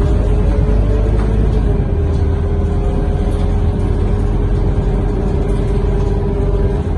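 Scania K230UB bus heard from inside the cabin, its five-cylinder diesel and drivetrain running under way: a deep steady rumble with a steady mid-pitched whine over it.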